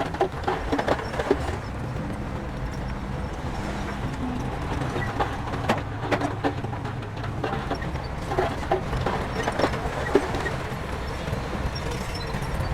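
Heavy diesel earthmoving machinery running steadily, with irregular metallic clanks and knocks throughout.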